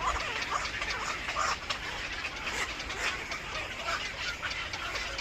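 Birds calling: a dense, unbroken run of short, overlapping chirps and cheeps.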